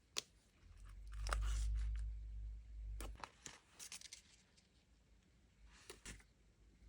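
Paper and stationery being handled on a desk: a sharp click, a low dull rumble lasting about two seconds, then soft crinkling and a few light clicks and scratches.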